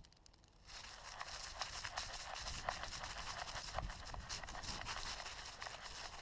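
Rustling and crackling with many small snaps and clicks, starting about a second in and continuing steadily.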